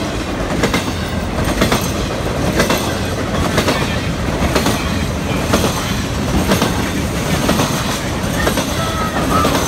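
Triple Crown RoadRailer trailers rolling past on their rail bogies: a steady rumble with clicks of the wheels over rail joints about once a second.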